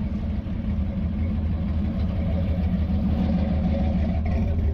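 Car engine idling with a steady, low rumble.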